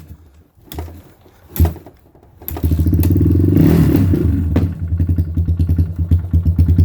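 Suzuki LT230S quad's single-cylinder four-stroke engine being kick-started cold: a couple of short pops, then it catches about two and a half seconds in and runs unevenly, stumbling once, before fading out near the end. It is a cold start that won't yet hold an idle.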